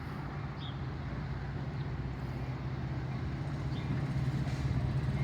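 Diesel locomotive of an approaching Metra commuter train, a steady low engine drone that grows slowly louder.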